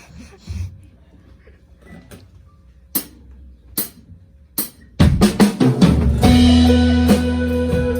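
Live indie rock band starting a song: three sharp stick clicks a little under a second apart count it in, then the drum kit and the rest of the band come in loudly about five seconds in.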